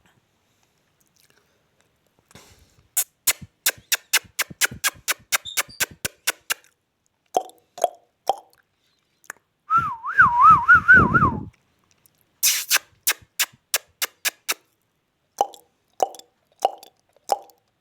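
Indian ringneck parrot making rapid clicking sounds, short chirps and one loud warbling whistle, followed by a run of short repeated calls about twice a second.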